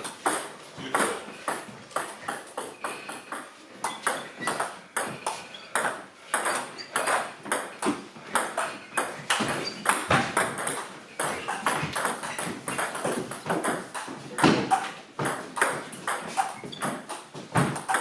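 Table tennis rally: a plastic ball clicking in quick succession off bats and table, several hits a second, going on with barely a break.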